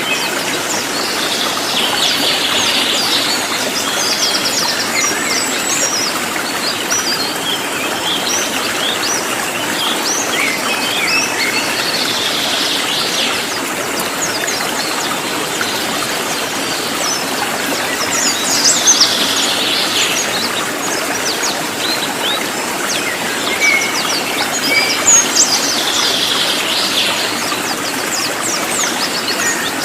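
A cililin, a small songbird, singing bouts of rapid, high-pitched twittering notes every several seconds, over a steady background hiss of running stream water.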